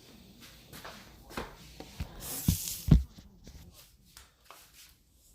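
Rustling and handling noise with several soft knocks, a short hiss a little after two seconds, and two louder low thumps near the middle.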